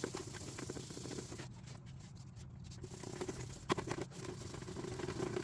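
Hand-rubbing and scraping on a plastic headlight lens, as in sanding it by hand, with two sharp knocks about two-thirds of the way through.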